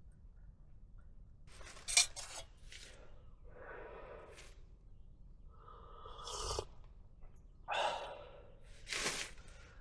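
Camping gear being handled: several separate bursts of rustling and scraping, with a sharp click about two seconds in.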